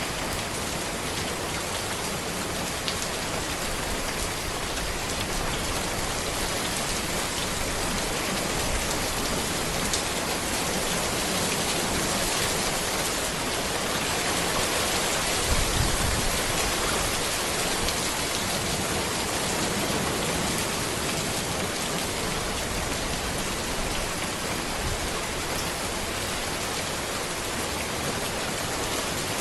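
Steady rain falling on a road, a dense even hiss of drops with scattered individual drop ticks. A brief low rumble swells up about halfway through.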